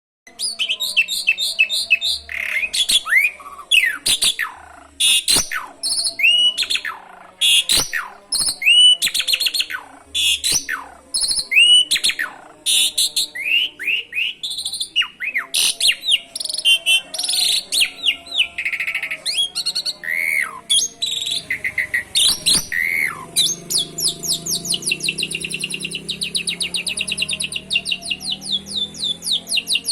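Pied starling (jalak suren) singing a loud, varied song of sharp whistles, clicks and down-slurred notes, with mimicked canary phrases worked in. From about 23 s it switches to a long, fast canary-like trill.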